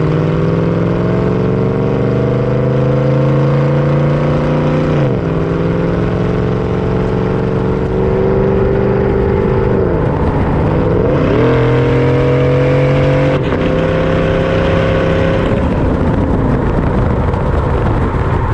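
A 2014 GMC Sierra's L83 5.3-litre V8 through a Corsa Sport cat-back exhaust, accelerating under way. The exhaust note climbs in pitch for about five seconds and drops sharply at an upshift. It dips and climbs again near the middle, then the engine tone fades near the end as the throttle eases off.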